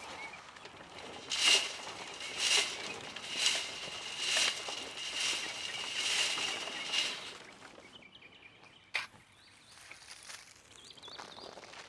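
Wood chips being shaken through a sieve: about seven rhythmic rattling swishes, roughly one a second, with a thin high tone underneath. The shaking then stops, and there is a single sharp click about nine seconds in.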